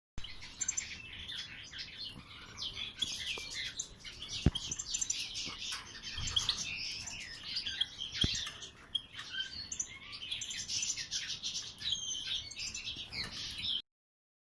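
Captive finches twittering and chirping in a rapid, continuous run of short high notes, with a couple of sharp clicks along the way. The sound stops abruptly shortly before the end.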